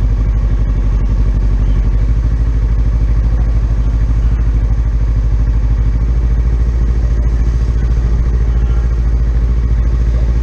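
Motorcycle engine idling steadily, close to the microphone, its pitch holding level with no revving.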